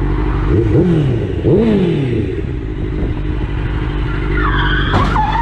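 Steady drone of a vehicle's engine and road noise. About a second in there are short pitched sounds that glide up and then down, and near the end there is a short sharp knock with higher gliding tones.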